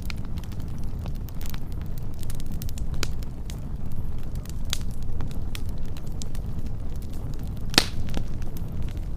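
Wood fire burning with a steady low rumble and scattered sharp crackles and pops, one louder pop near the end.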